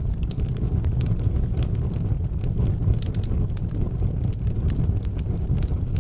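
Wood fire burning in an outdoor fireplace: a steady low rumble with frequent sharp crackles and pops at irregular intervals.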